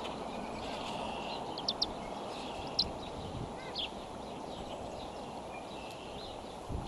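Steady outdoor background noise with a few short, high bird chirps through it, including a quick run of three about one and a half seconds in.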